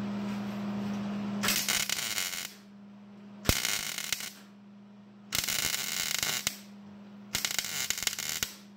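MIG welder laying short stitch welds on thin sheet metal, four crackling bursts of about a second each with pauses between. A steady low hum runs under them.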